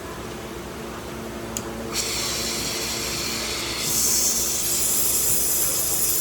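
A steady mechanical hum, joined about two seconds in by a loud hiss that grows louder near four seconds in.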